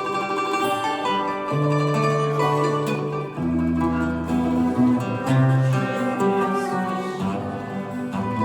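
A small instrumental ensemble playing plucked string instruments over held low notes.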